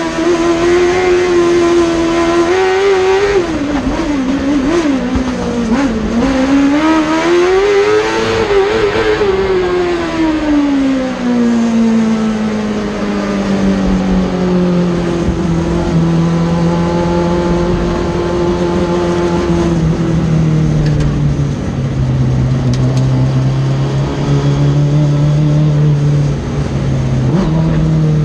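Suzuki-engined Peugeot 106 race car's engine revving hard, its pitch swinging up and down through the first half. It then falls away and holds a lower, steady note.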